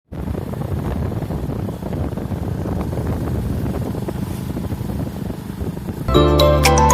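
A steady low rumbling noise, then music starts about six seconds in.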